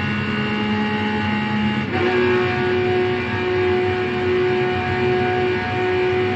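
A car engine running at a steady pitch, which jumps suddenly to a different steady pitch about two seconds in.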